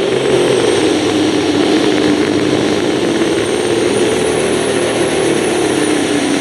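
Pro stock semi truck's Detroit diesel engine at full throttle, pulling a weight-transfer sled: a loud, steady roar whose pitch sags a little near the end, with a faint high whistle rising over it partway through.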